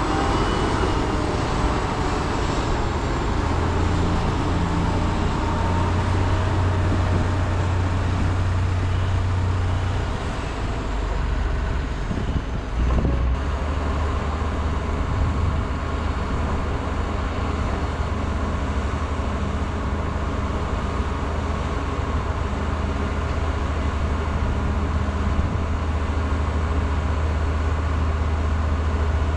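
Heavy diesel construction machinery running steadily with a deep engine hum. The engine note shifts around ten seconds in, and there is a single knock about thirteen seconds in.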